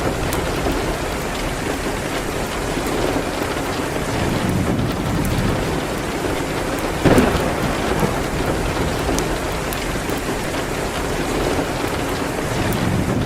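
Steady rain with occasional faint crackles from a wood fire, and one louder sharp crack about halfway through.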